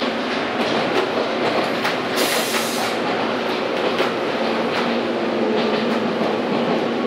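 Inside a running ex-Keio 3000-series electric train car: steady running noise with the wheels clicking over the rail joints. A short high hiss comes about two seconds in.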